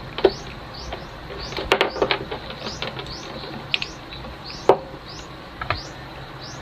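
A small bird chirping repeatedly in the background, short high rising chirps about twice a second, with a few sharp clicks and taps from handling the work.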